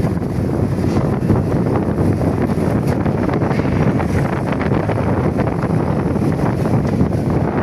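Heavy wind blowing hard across the microphone, a steady low rumble that stays loud throughout.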